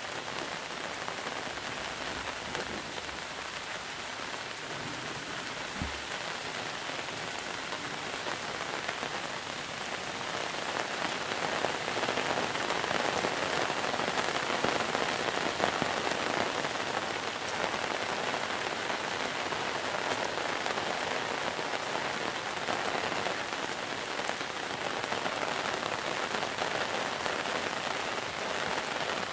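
Steady monsoon rain falling, growing heavier about ten seconds in.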